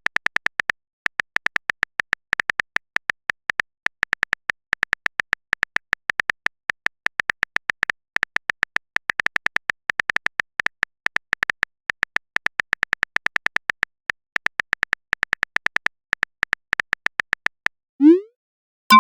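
Smartphone keyboard typing sound effect: rapid, irregular clicks, several a second, as a chat message is typed out. About 18 s in the clicks stop and a short rising bloop sounds, a message-sent effect.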